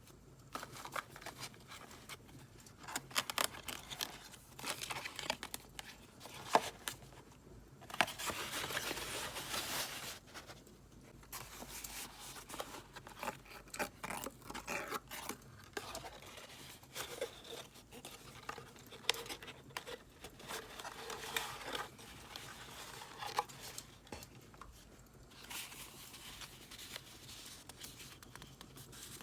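Paper being handled close up for journal decorating: rustling, crinkling, tearing and scissor cuts. It comes in irregular small clicks and rustles, with a longer stretch of tearing or cutting about eight seconds in, over the faint crackle of a wood fire.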